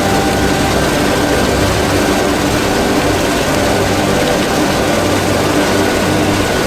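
Heavy tractor engine running steadily under load, a dense, even drone with a constant pitch.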